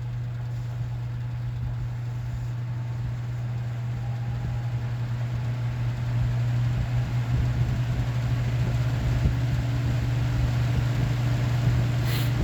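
Lasko 3733 box fan motor running on high with a steady hum and rush of air, gradually speeding up as its cold-stiffened bearings break free. A faint tone climbs in pitch and the sound grows louder about halfway through. There is a brief click near the end.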